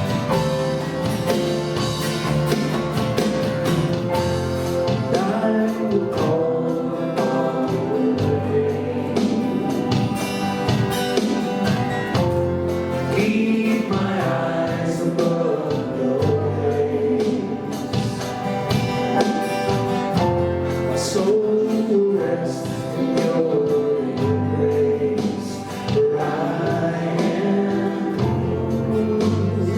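Live church worship music: a band with held bass notes accompanying singing of a gospel-style worship song.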